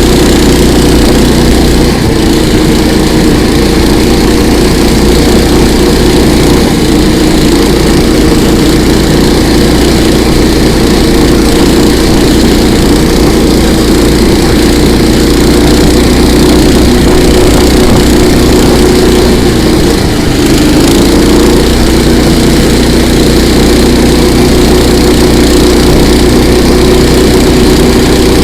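Engine of a KOiRA all-season motorized tow running steadily during the ride, with a brief dip and wobble in pitch about twenty seconds in.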